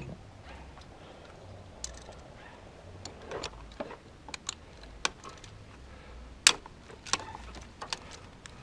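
Scattered metallic clinks and taps of hand tools, a socket and extension working at the engine's spark plugs, about nine in all. The loudest comes about six and a half seconds in, over a low steady hum.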